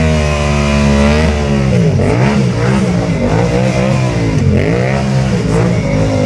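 Yamaha MT-07's parallel-twin engine revving hard: held high for about a second, then dropping and climbing again several times in quick succession.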